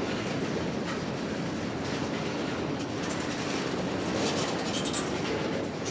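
Cars of a mixed freight train rolling past with a steady rumble, their steel wheels clicking over the rail joints.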